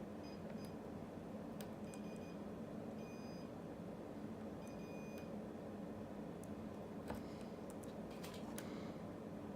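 Multimeter in continuity mode beeping several times in short, high-pitched tones as the probes touch connected pins on a circuit board, the beeps marking a continuous connection. Light clicks and taps of the probe tips on the board, bunched near the end, over a steady low hum.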